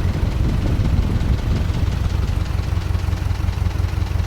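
Freshly rebuilt GAZ-MM four-cylinder flathead (side-valve) engine idling steadily, with an even, rapid low pulse of firing strokes.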